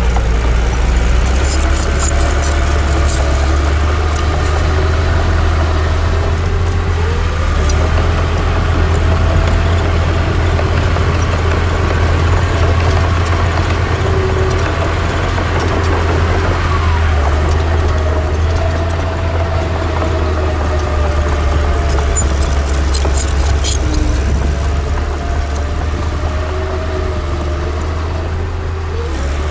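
Heavy diesel earthmoving machinery running steadily: a deep engine drone with a wavering whine above it, and light clicks now and then.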